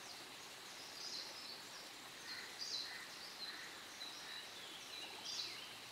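Faint natural ambience with several short, high bird calls every second or so over a soft steady background hiss and a faint high steady tone.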